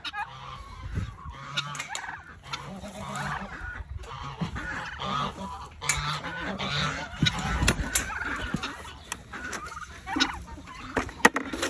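Mixed farm poultry calling: geese honking and chickens clucking, with scattered short clicks.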